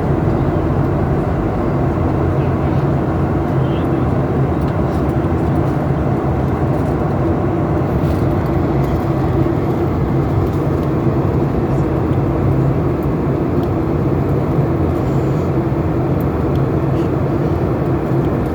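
Steady drone of a Boeing airliner's jet engines and rushing air, heard inside the passenger cabin.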